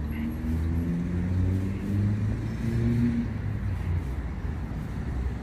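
A car engine running and accelerating on a nearby road: a low hum whose pitch rises and falls over a few seconds.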